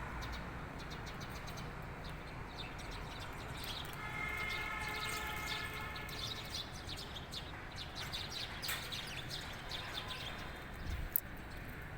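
Small birds chirping and singing in quick, high notes, with a held, pitched call for a couple of seconds about four seconds in and a single sharp click near the end.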